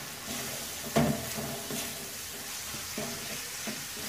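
Spice masala of ginger-onion paste, tomato, turmeric, salt and cumin sizzling in hot oil in a pan while it is stirred. A steady sizzle runs under several scraping knocks of the stirring utensil against the pan, the loudest about a second in.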